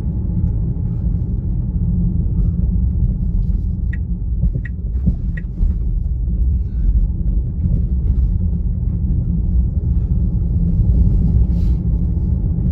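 Steady low road and tyre rumble inside the cabin of a Tesla Model Y on the move, with no engine note since the car is electric. Three short high ticks come about two-thirds of a second apart, near the middle.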